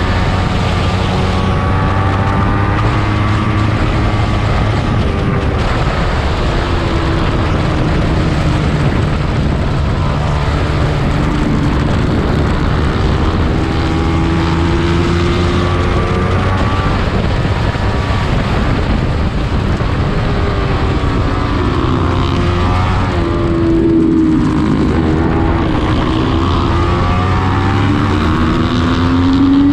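Small-displacement race motorcycle engine running hard at high revs, its pitch rising and falling as the bike accelerates and slows, with a dip and climb about three quarters of the way through.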